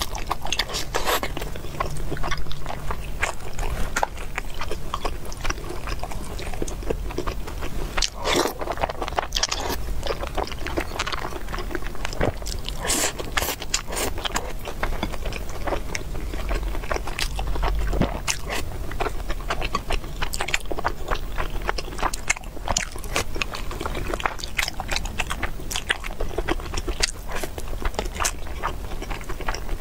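Close-miked eating: wet chewing and biting of braised meat and rice, with chopsticks clicking and scraping against the dishes. It is a dense, irregular run of small clicks and smacks.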